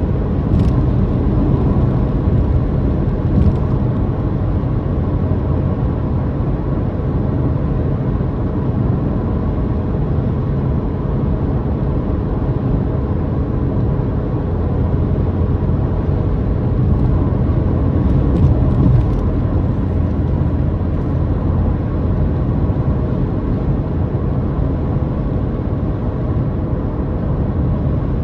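Car engine and road noise heard from inside the cabin during a steady cruise: a constant low drone with a faint steady hum, and a few light ticks about a second in and again around two-thirds through.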